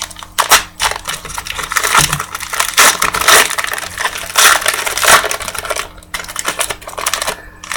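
Trading card pack wrappers being torn open and crinkled as the cards are pulled out. It is a dense run of crackles and rustles that dies away just before the end.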